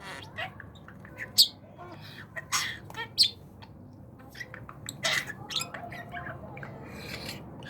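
Budgerigar chirping and chattering: a run of short, sharp chirps with a few louder squawks among them.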